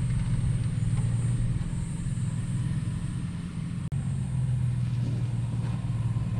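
Toyota Prado 120-series 4x4's engine running at a steady low pitch during a rock climb, without revving, with one very brief break about four seconds in.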